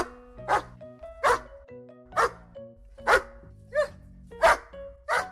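A dog barking, about eight short barks less than a second apart, over light background music with held notes.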